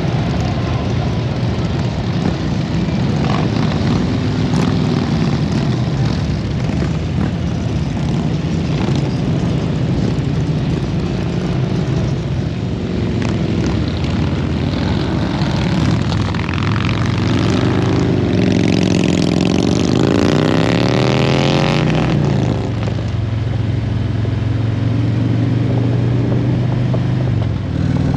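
Motorcycle engines running loudly. About two-thirds of the way through, an engine note sweeps up and down in pitch several times before settling back to a steady drone.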